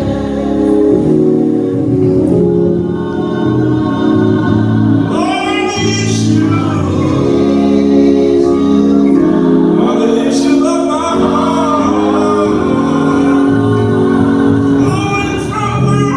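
A gospel choir singing over sustained accompanying chords.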